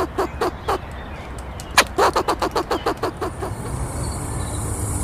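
A duck quacking in two quick runs, about six quacks a second, each run starting loud and fading away. A steady hiss rises near the end.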